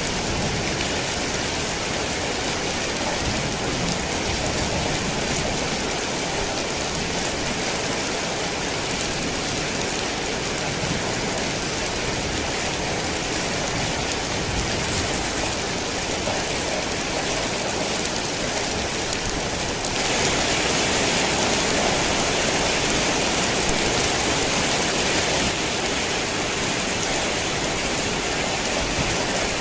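Heavy rain falling steadily in a dense, even hiss. It grows louder and brighter for about five seconds, starting about two-thirds of the way in, then settles back.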